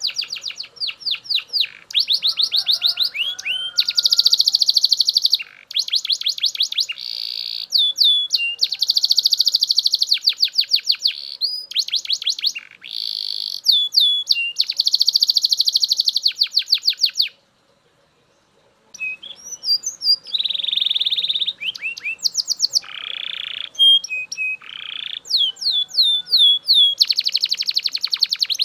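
Belgian canary singing loudly in long, fast trills of rapidly repeated, downward-sweeping notes alternating with dense rolling tours. There is one brief pause about two-thirds of the way through before the song resumes.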